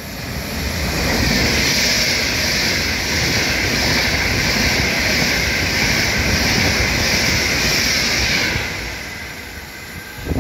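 Electric passenger train passing through the station at speed without stopping: a steady rush of wheels on rail and air. It swells over the first second, holds for about eight seconds, then fades away.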